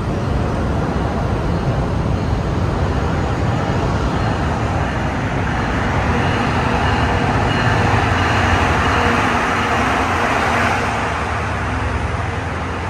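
NJ Transit diesel-hauled commuter train pulling into the platform: a steady engine and wheel rumble that grows louder as the locomotive draws alongside, peaking past the middle and easing off near the end.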